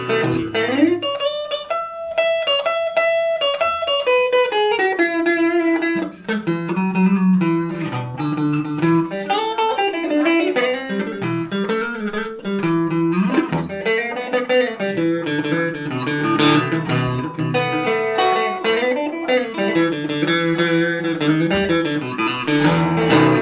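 Electric guitar, a Van Zandt Telecaster played through a Roland JC-120 amp, playing a blues instrumental passage of picked notes over a moving bass line.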